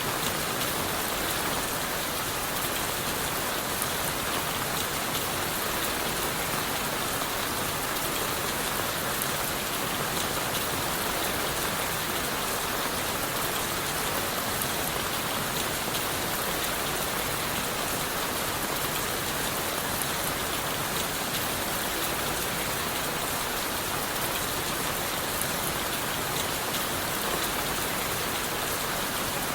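Steady rain falling on leaves, wood and the forest floor, an even, unbroken patter of many drops with no single louder event.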